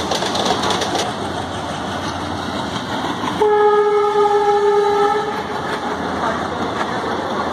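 A passenger train running on the rails, a steady rumble with faint clicks. About three and a half seconds in, a train horn sounds once, a steady blast of about two seconds.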